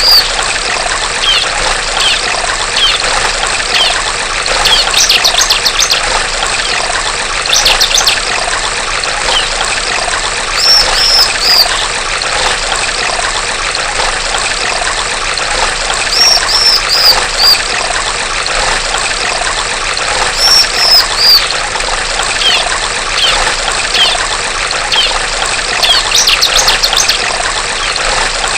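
Female bar-winged prinia (ciblek) calling every few seconds: short groups of three or four high, falling notes alternating with quick rattling trills. Under the calls, the steady trickle of running water.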